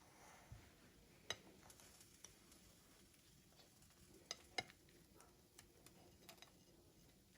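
Faint, scattered light clicks and taps over quiet room tone, the loudest about a second in and a pair a little past the middle.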